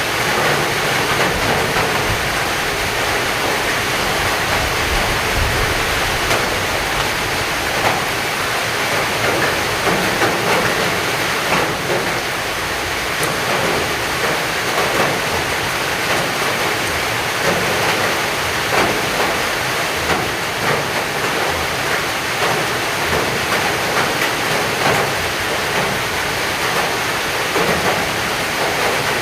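Heavy rain pouring steadily, with a dense patter of drops striking close by.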